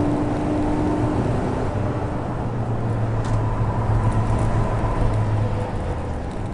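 A car engine running steadily over a haze of road and wind noise.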